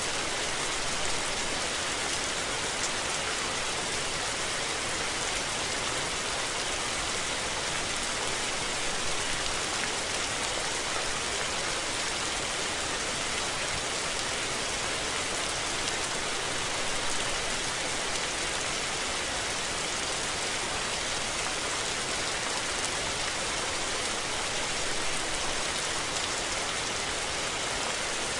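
Steady rain falling on surfaces: an even hiss of drops, strongest in the high range, with no thunder.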